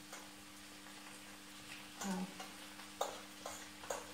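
Chopped onion, carrots and red peppers sizzling softly in a frying pan, with a few light utensil clicks in the second half. A low steady hum runs underneath.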